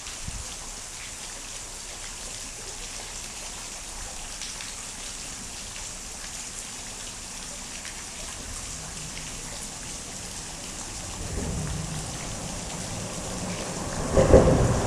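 Steady rain falling, a continuous hiss. Near the end a low rumble builds up and swells loudly.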